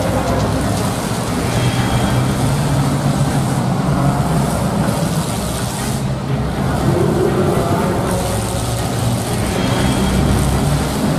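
Engines of several demolition derby cars running and revving together, a steady din whose pitch rises and falls as they drive.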